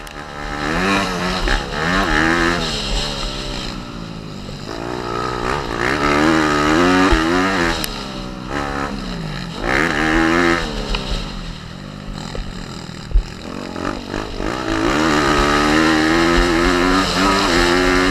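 Pit bike's small single-cylinder four-stroke engine being ridden hard, revving up and dropping back over and over as the throttle opens and closes and gears change.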